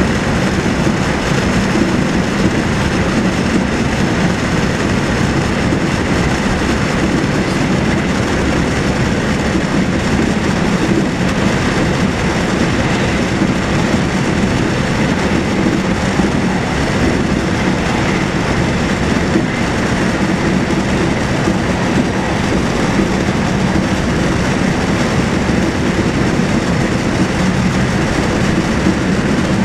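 Steady rumble and rush of a passenger train running at speed, heard from inside the carriage.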